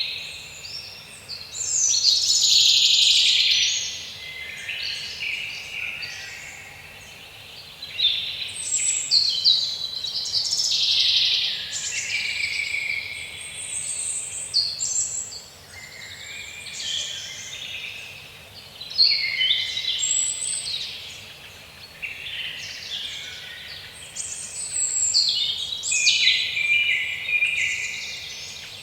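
Several songbirds singing at once, a dense, overlapping chorus of chirps and trills that swells and fades every few seconds.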